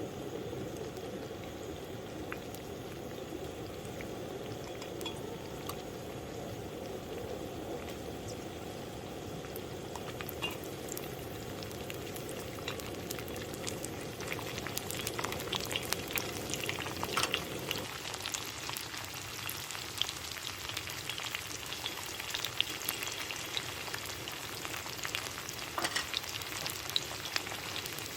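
Food frying in a pan, a steady sizzle with sharp crackles and pops that grow busier in the second half, as the lower hiss drops away.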